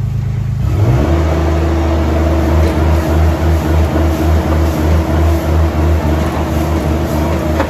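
Farm tractor engine running, picking up about a second in and then holding a steady, throbbing run with a pulse about three times a second.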